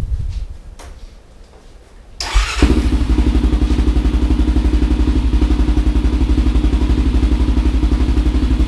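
Honda 400EX's single-cylinder four-stroke engine starting about two seconds in and settling into a loud, steady, evenly pulsing idle through an FMF Q4 slip-on muffler with the spark arrestor removed. A couple of faint knocks come before it starts.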